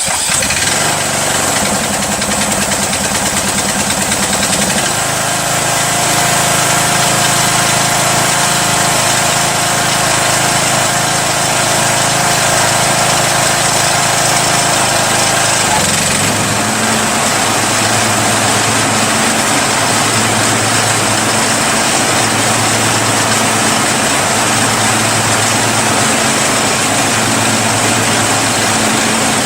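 Riding lawn tractor's small engine just started on choke and running steadily. Its note changes about five seconds in and again about sixteen seconds in.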